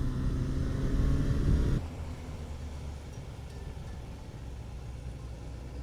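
Motorcycle engine running under way, with steady road and wind noise. The level drops abruptly about two seconds in to a quieter, steady low rumble.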